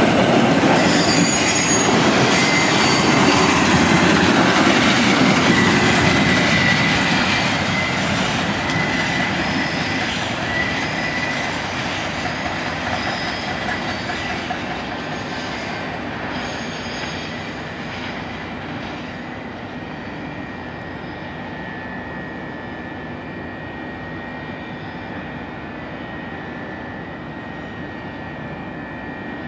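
Canadian National autorack freight cars rolling past on steel wheels, with thin high-pitched wheel squeal over the running noise. After about seven seconds the sound fades steadily as the end of the train passes and moves away, leaving a fainter steady sound with a thin squeal tone still in it.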